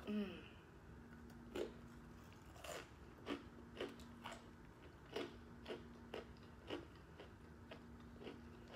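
Close-up chewing of a taco topped with Takis rolled tortilla chips: irregular crisp crunches, a couple a second, over a faint steady hum. A brief voiced mouth sound right at the start is the loudest moment.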